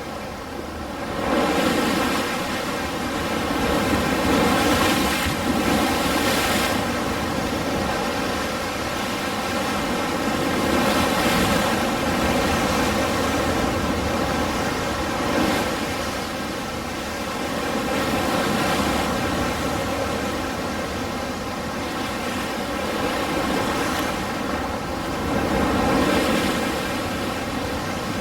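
Ocean surf: a steady wash of breaking waves that swells and falls back every few seconds.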